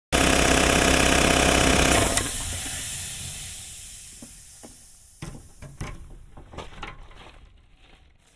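Craftsman air compressor pump running, being run to warm its oil before an oil change; about two seconds in it shuts off and the sound dies away over several seconds, with a few clicks and knocks.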